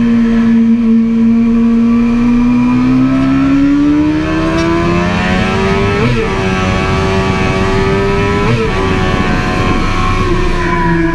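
Sport bike engine under full throttle, heard onboard over rushing wind: the revs dip through a corner and then climb, with two quick upshifts about six and eight and a half seconds in.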